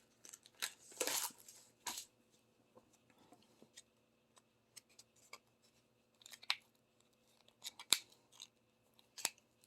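Faint scattered clicks and short rustles of small plastic craft tools being handled, a diamond painting multi-placer pen and its tip being refilled with sticky putty.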